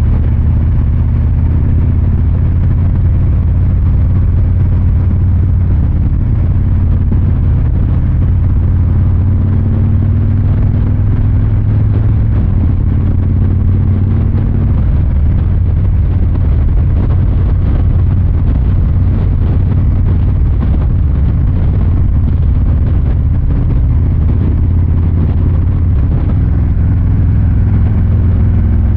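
The Milwaukee-Eight 114 V-twin engine and exhaust of a 2023 Harley-Davidson Fat Boy 114, heard from the rider's seat while riding at an even pace. The deep engine note runs steadily, its pitch shifting only a little, with no hard acceleration.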